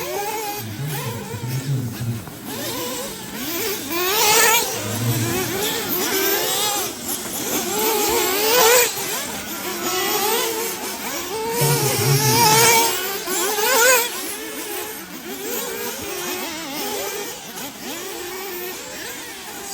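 Several 1/8-scale nitro off-road RC buggies running on the track, their small glow-fuel engines revving up and down in high, wavering whines that overlap. The loudest surges come about 4, 9, 12 and 14 seconds in.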